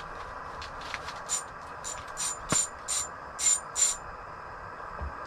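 Fishing reel clicking in short, high-pitched bursts, two or three a second, while a pike is played on the line; there is a sharp click about halfway through.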